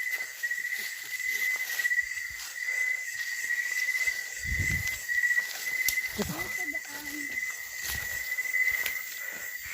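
Night insects, crickets, trilling steadily at one high pitch, with scattered footsteps on the trail and a dull low thump about halfway through.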